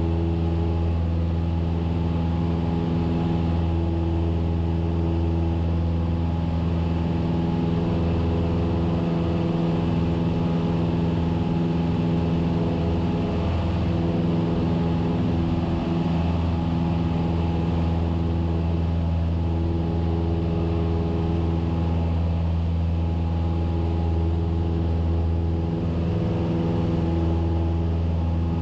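Cessna 172S's four-cylinder Lycoming engine and propeller running steadily in flight, a constant drone heard inside the cockpit.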